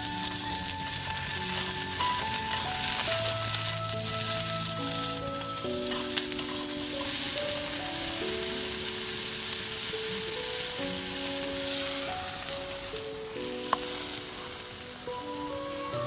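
Wood and charcoal fire crackling and hissing, with scattered sharp pops, under background music playing a simple melody.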